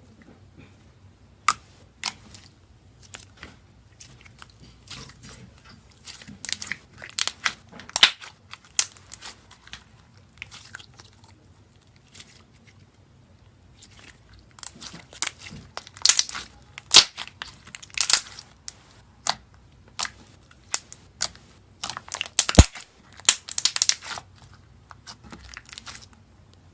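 Crisp crunching and crackling of a brittle material being cut or broken: sharp cracks in two spells with a short lull between them, the second spell denser, with one loud crack and thud near the end.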